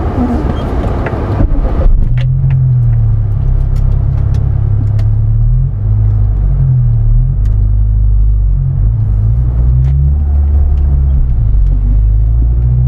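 Car engine running, heard from inside the cabin as a low steady hum, after a rushing noise in the first second or so. Near the end the engine note rises as the car pulls away, with a few light clicks scattered through.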